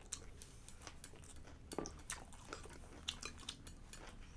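Faint eating sounds: chewing, with scattered light clicks of a spoon and chopsticks against plates.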